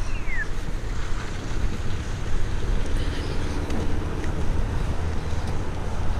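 Steady street traffic noise with a low rumble. At the very start comes the last of a pedestrian crossing signal's repeating falling chirps, which then stops.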